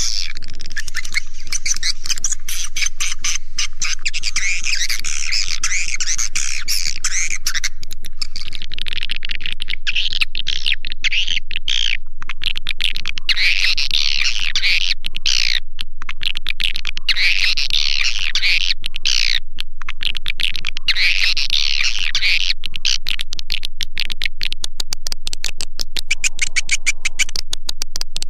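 Swiftlet-house call sound: a recording of edible-nest swiftlet chirps, a dense high-pitched twittering that comes in waves with short breaks, played as a lure to draw swiftlets in to nest.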